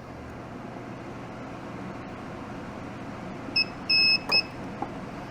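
Mini spot welder on auto-sense welding nickel strip to an 18650 cell: a short beep, a longer beep, then the sharp crack of the weld pulse, a little past halfway through, with a small click after it. A steady hiss sits under it throughout.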